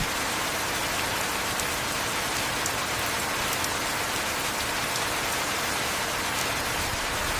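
Heavy rain falling steadily: an even hiss with scattered faint drop ticks.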